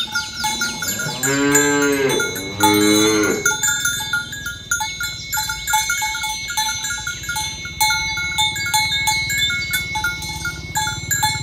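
Cows mooing: two long moos that rise and fall in pitch, in the first few seconds. Short tinkling bell notes repeat throughout.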